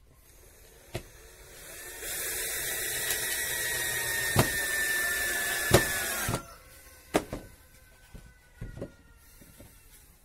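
An electric power tool runs for about four seconds with a high whine, then is switched off and winds down slowly. Several sharp wooden knocks come before and after it.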